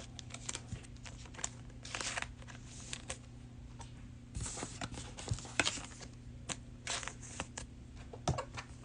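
Trading cards being handled: short soft rustles and taps as cards are slid and flipped against one another, in scattered bursts over a faint steady low hum.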